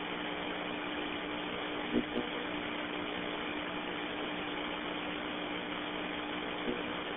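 Steady hiss with a low hum from a fire-department radio channel between transmissions, with a couple of faint clicks about two seconds in and near the end.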